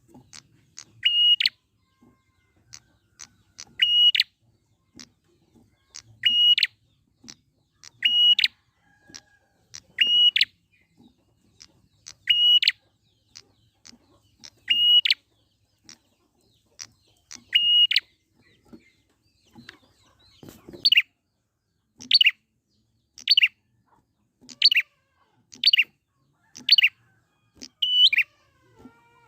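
A prinia (prenjak) calling: a sharp, high note repeated about every two seconds, with faint short ticks between. About two-thirds of the way through the calls quicken to about one a second and slide downward in pitch.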